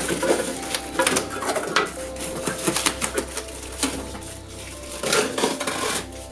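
Packaging being handled while unboxing a fridge: an irregular run of sharp clicks, knocks and rustling of cardboard and plastic.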